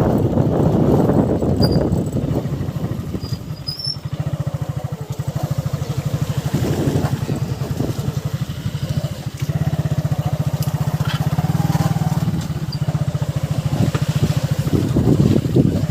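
Motorcycle engine running at low speed with a steady, rapid pulsing beat, louder and rougher for the first couple of seconds.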